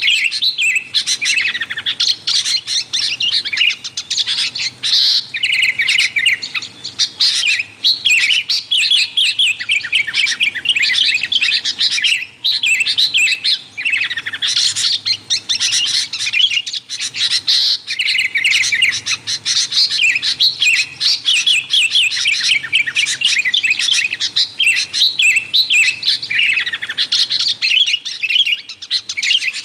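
Sooty-headed bulbuls (kutilang) chattering noisily in a dense, unbroken stream of rapid high chirps and twitters, the excited calling used to lure wild bulbuls.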